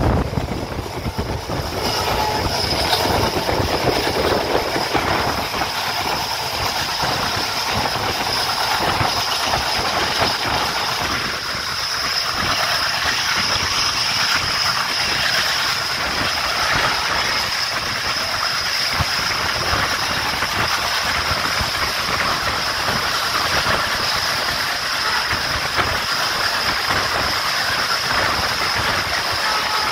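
Passenger coach of an express train running at speed, heard from its open doorway: a steady rush of wheels on rails and wind, with fast clickety-clack and a steady high-pitched whine throughout.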